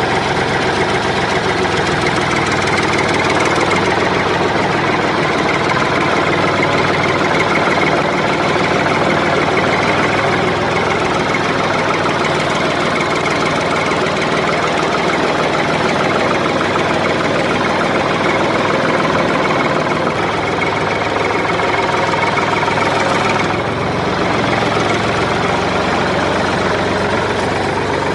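A small motor running steadily and without a break, with a fine rapid rattle to it; it dips briefly a little before the end.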